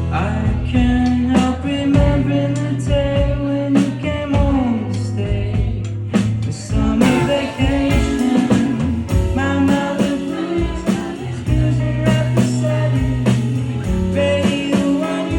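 Live indie rock band playing: electric guitar, bass and drums with a sung vocal line, heard loud and full as recorded from the audience.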